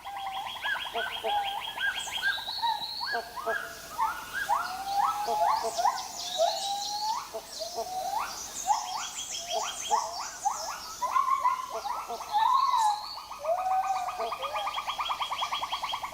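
Tropical rainforest animal chorus: many overlapping bird calls with repeated short rising notes and higher chirps, over fast pulsing trills.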